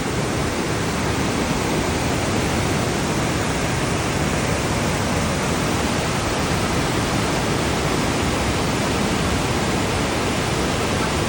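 Steady, loud rush of floodwater pouring through the opened gates of a barrage.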